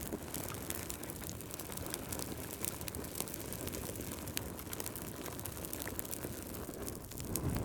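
Wood fire burning in a fireplace: a steady low rush of flames with many small sharp crackles and pops.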